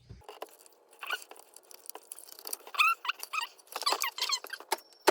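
Plastic electrical connector on an engine control module being worked loose by hand: irregular clicks and short squeaks, growing busier from about halfway in.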